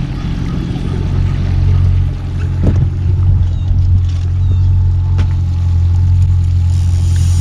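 Boat motor running steadily at trolling speed, a loud low hum, with a couple of short knocks partway through.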